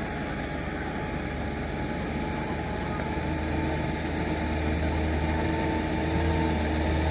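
Heavy diesel vehicle engine running steadily with a deep hum, growing gradually louder toward the end.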